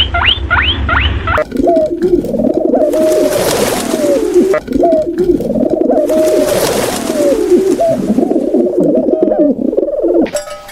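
Pigeons cooing, several overlapping low, bending calls, with two spells of hissing noise among them. Before that, for about the first second and a half, a run of quick high squeaks falling in pitch, about three a second.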